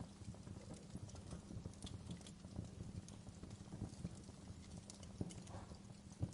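Wood fire crackling in a fireplace: a steady low rumble of burning logs with scattered small pops and snaps, and one sharper pop near the end.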